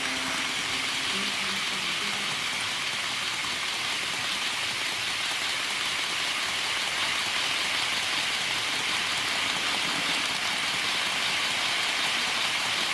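HO gauge model freight train running on the track: a steady rolling noise from the model locomotive and its long rake of two-axle wagons.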